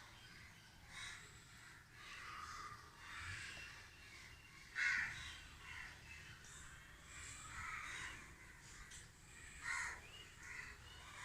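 Crows cawing in the background, a run of short harsh caws, the loudest about five seconds in and another near ten seconds.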